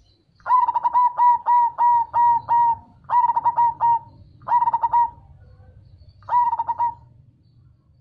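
Zebra dove (perkutut) cooing: four bursts of quick, rippling coo notes, the first and longest lasting about two seconds, over a faint low hum.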